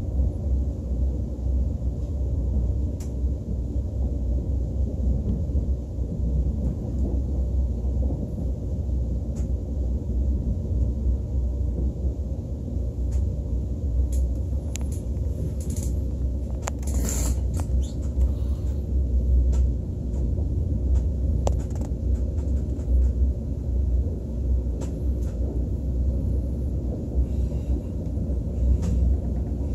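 Steady low rumble of a KTX high-speed train running, heard from inside the passenger cabin, with scattered light clicks and a brief hiss about 17 seconds in.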